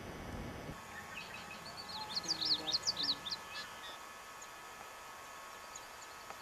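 A songbird singing one short phrase of quick, high, zigzagging notes, beginning about a second in and lasting about two and a half seconds.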